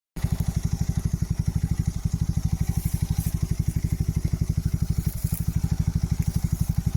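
Engine idling steadily with a rapid, even low throb.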